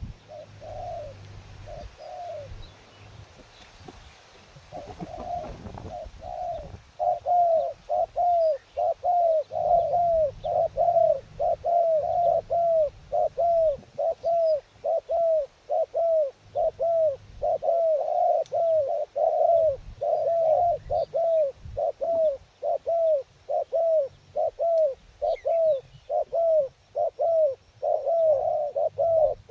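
Dove cooing in a long series of short arched notes, about two a second. It is faint at first and much louder from about five seconds in.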